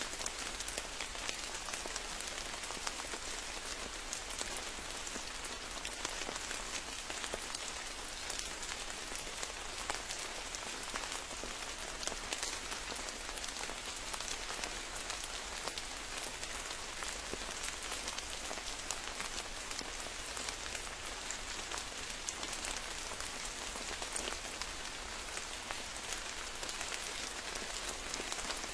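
Steady rain falling on a forest, an even hiss full of fine drop patters that holds constant throughout.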